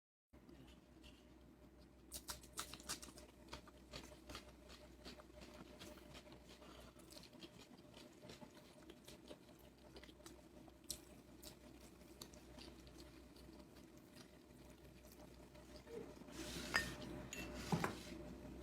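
Faint eating sounds from a meal of rice and curry: scattered small clicks and soft chewing, with a short louder stretch near the end.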